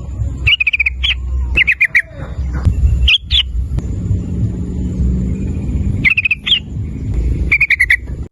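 Yellow-vented bulbul (trucukan) calling in short bursts of rapid chattering notes, about six phrases with pauses between them, over a steady low rumble.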